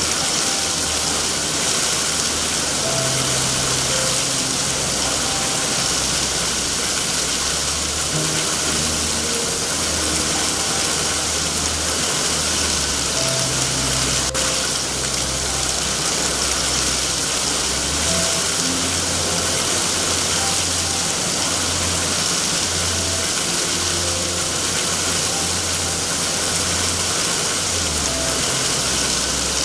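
Steady heavy rain hissing without a break, with soft, slowly changing low notes of background music underneath.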